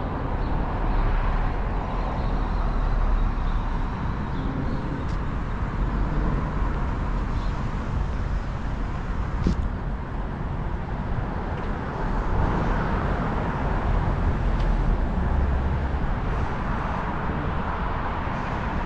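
Downtown street traffic: a steady wash of passing cars and engines with a low rumble.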